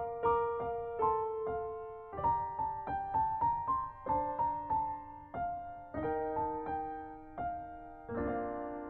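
Background music: gentle solo piano playing a slow melody, ending on a held chord about eight seconds in.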